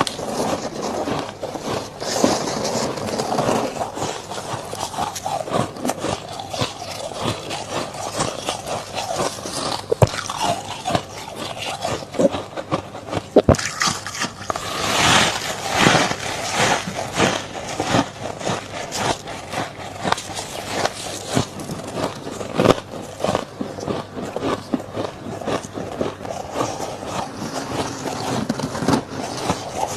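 Freezer frost being bitten and chewed: dense, irregular crunching and crackling, with a louder burst of crunching about halfway through.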